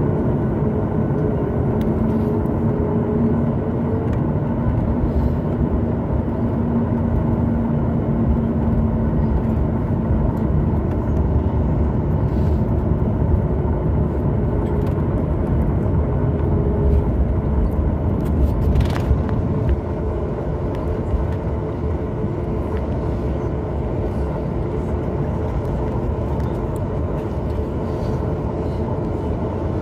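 Boeing 737 MAX 8's CFM LEAP-1B engines heard from inside the cabin while the jet is on the ground after landing: a steady low rumble with a droning tone that fades out. About 19 seconds in there is a brief sharp click, and the noise then drops a little.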